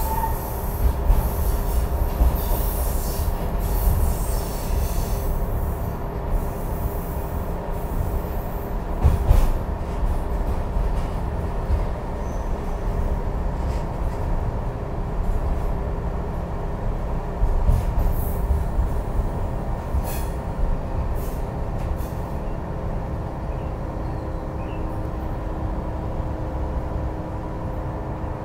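Ride noise inside a moving heritage train's passenger carriage: a steady low rumble of wheels on the track with steady humming tones over it, and a few sharp knocks from the running gear, the loudest about nine seconds in.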